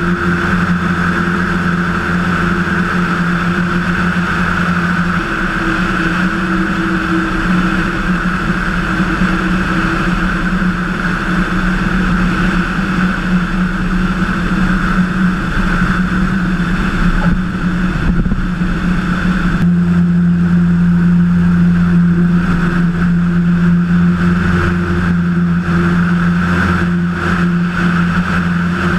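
Cessna 177 Cardinal's single piston engine and propeller running steadily in cruise, heard as a constant cabin drone; it grows a little louder about two-thirds of the way through.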